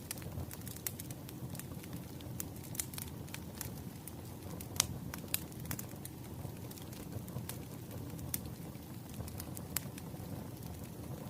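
Wood fire burning: a steady low rumble of flames with irregular sharp crackles and pops, the loudest about five seconds in.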